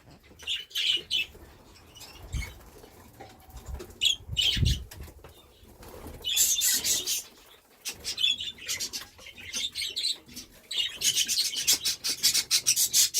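Budgies flapping their wings in short flurries, with some chirping, and a longer, denser run of fluttering near the end. A couple of soft low thumps come in the first few seconds.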